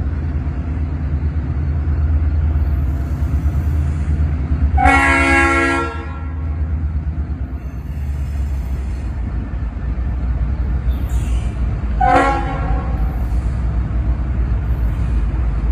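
Diesel freight locomotive's air horn sounding twice, a longer blast about five seconds in and a shorter one about twelve seconds in, over the steady low rumble of the locomotive's engine as the train approaches.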